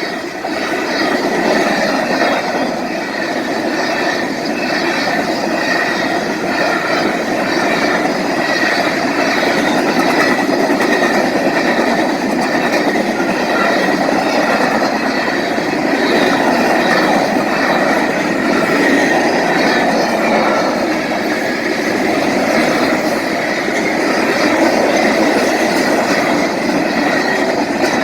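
Freight train cars rolling past at speed, about 55 mph: steady, loud wheel-on-rail noise with a thin high tone running through it.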